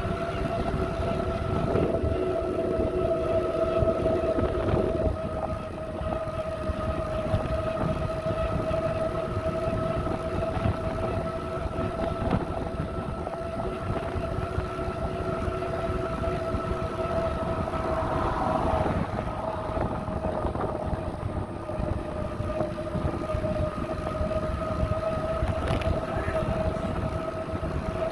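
Bicycle ride heard from the bike: a low, steady rumble of wind and tyres with a steady whine held on top throughout.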